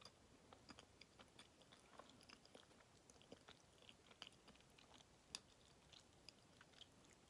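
Faint mouth sounds of someone chewing a lemon Kamome no Tamago, a soft egg-shaped Japanese cake with a coated sponge shell and bean-paste filling: small irregular wet clicks and smacks, with no crunch.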